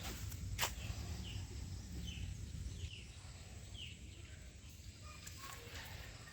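Outdoor ambience with a bird giving short, high, falling calls about once a second, over a low rumble; a sharp click about half a second in.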